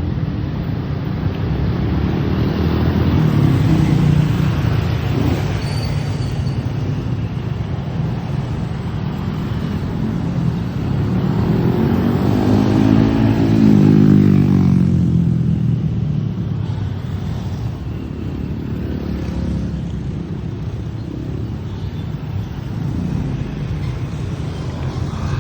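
Steady low wind rumble on the microphone, with road traffic; about halfway through a motor vehicle passes close, its engine note rising and then falling as it goes by.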